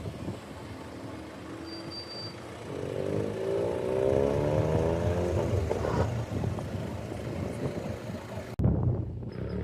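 A car engine accelerating, its pitch climbing over about two seconds and then levelling off. The sound changes abruptly near the end.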